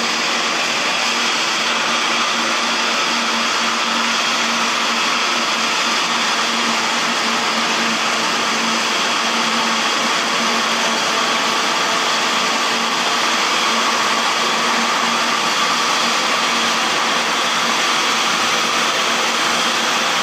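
Jet engines of an Airbus A350-900, Rolls-Royce Trent XWBs, running steadily: a constant rushing whine with a few faint steady tones, holding at one level throughout.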